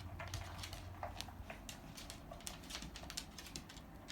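A dog moving about as it hunts for treats: light, irregular clicks and taps, a few a second.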